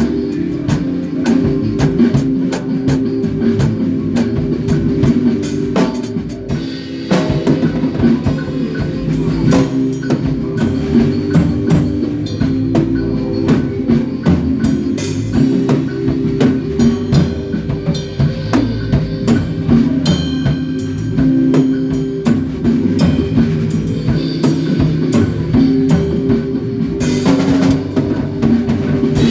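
Rock band playing live: drum kit keeping a steady beat with bass drum and snare under bass guitar and electric guitar, with cymbal crashes about halfway through and near the end.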